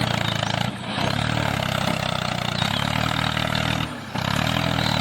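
Small motor of a DIY miniature tractor running steadily, its level briefly dropping twice.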